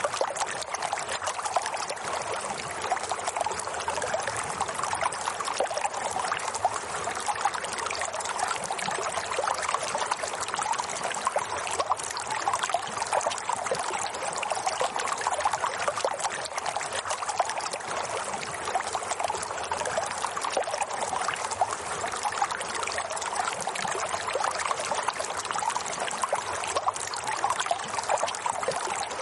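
Running water trickling and splashing steadily, like a small stream, with no change throughout.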